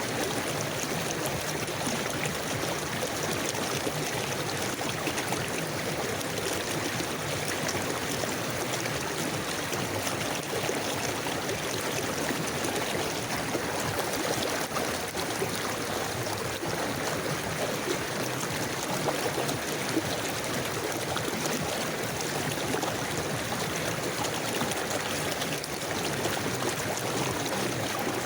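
A river or stream flowing steadily, an even rush of running water with small gurgles and trickles.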